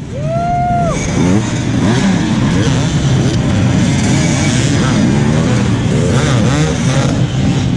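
Hard enduro dirt bike engines running and revving hard, their pitch wavering up and down as the throttle is worked. A short high held cry rises out of it about half a second in.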